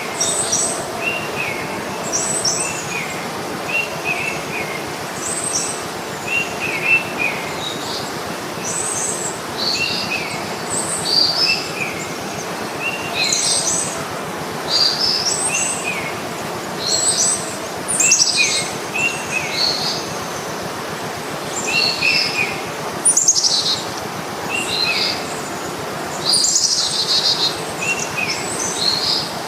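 Birds chirping outdoors, short high calls repeating every second or so over a steady background hiss.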